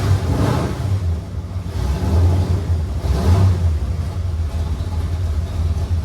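Stroked 427 V8 of a 1967 Ford Mustang running at idle with a deep, steady rumble, and a few short rises in revs.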